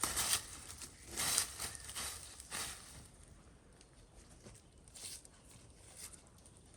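Rustling and crunching of dry forest litter, in a few short bursts during the first three seconds and fainter ones later.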